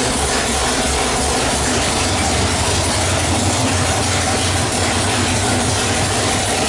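408 cubic-inch small-block Ford stroker V8 running steadily on an engine dyno, its level holding even with no rise or fall in pitch.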